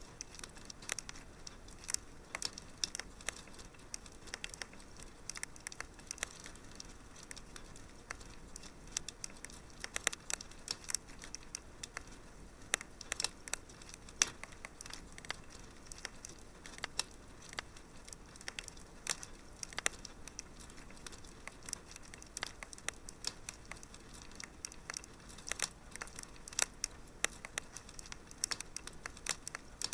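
Wood fire crackling in a fireplace: irregular sharp pops and snaps over a faint steady hiss, with a few louder pops.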